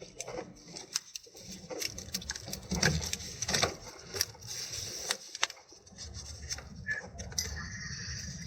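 Hand tools and small metal parts clicking and knocking irregularly during hand work, with a short squeak near the end.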